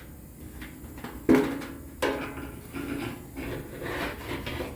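Handling noise: a sharp knock about a second in, a second knock shortly after, then irregular rubbing and scraping.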